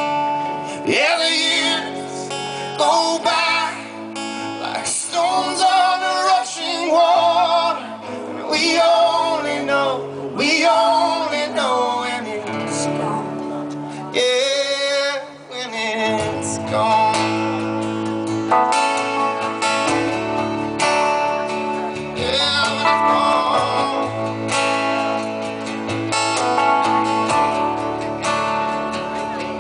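Live band music: a slow song sung over strummed acoustic guitar. After a brief drop about halfway through, fuller accompaniment with a low bass line comes in.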